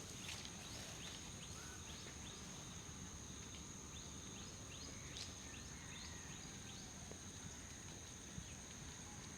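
Faint head-massage sounds: fingers rubbing and scratching through hair in short strokes about twice a second, over a steady high-pitched whine and low background rumble.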